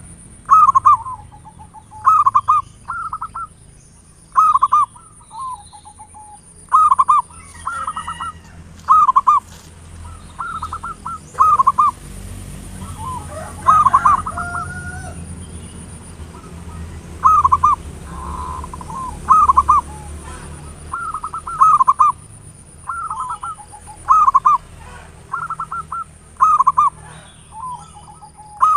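Zebra doves (perkutut) cooing: short, loud staccato phrases repeating every second or two, a lure recording meant to stir other doves to sing.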